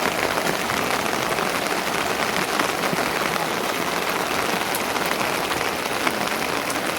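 Steady rain falling, a dense, even patter with no break.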